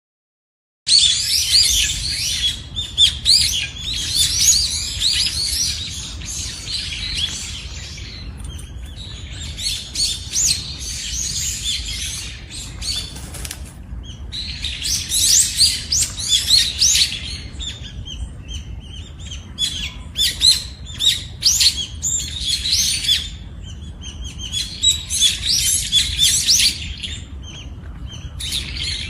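Many birds chirping and twittering in overlapping bouts with brief lulls, over a low steady rumble; the sound starts abruptly about a second in.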